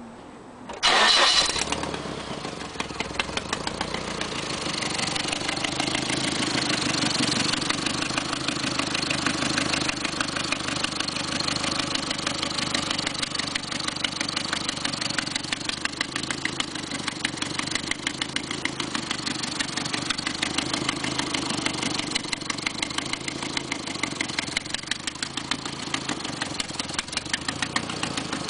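Nissan KA24E 2.4-litre four-cylinder engine starting about a second in, then idling steadily with a fast, even ticking. The ticking sounds like lifter knock but comes from an exhaust leak at the exhaust manifold bolts and gasket.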